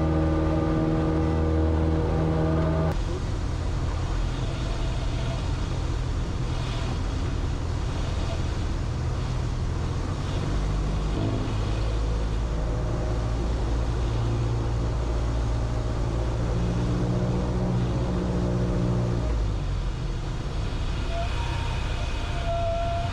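Cessna 172's propeller engine running steadily. Its low drone shifts pitch a few times.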